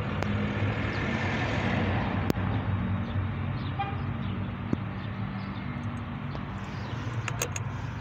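Car engine idling steadily, heard from inside the cabin, with a few sharp clicks about two seconds in and near the end.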